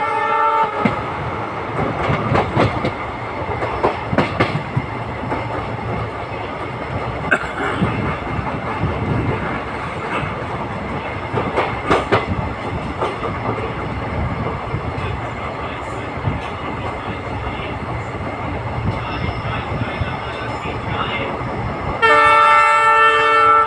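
Passenger train running, heard from on board: a steady rumble of the wheels on the rails with scattered clicks over the rail joints. The locomotive horn sounds at the start, stopping under a second in, and sounds again for about two seconds near the end.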